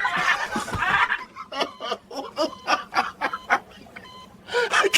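A person laughing hard, first breathy and wheezing, then in a fast run of short 'ha' bursts, about five a second, that fades out about three and a half seconds in.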